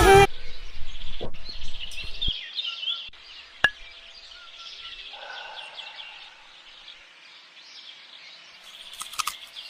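Birds chirping and singing after a song cuts off, with one sharp click a few seconds in.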